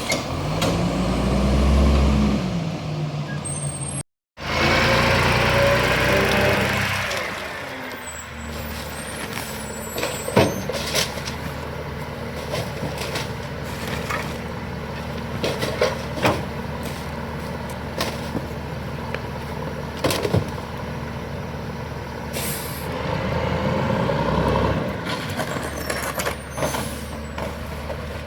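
Garbage truck engine revving up and down while the packer works, then running steadily with scattered clanks and knocks from the compaction. There is an abrupt cut about four seconds in, and the revs rise again near the end.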